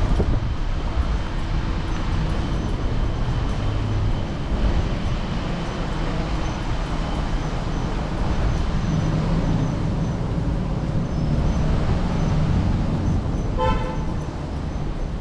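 Steady wind and road noise on a handlebar-mounted camera riding an electric scooter through city traffic. A short horn toot comes near the end.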